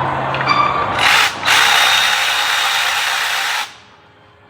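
Power tool spinning out a 10 mm bolt on the ABS pump bracket. It gives a short burst about a second in, pauses briefly, then runs for about two seconds and stops.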